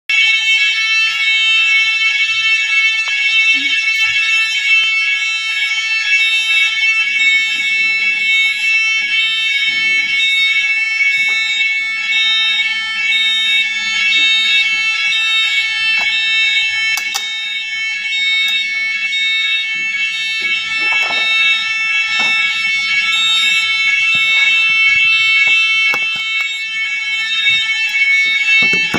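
Fire alarm sounder going off continuously with a loud, steady electronic tone, with faint handling noises and a sharp click partway through.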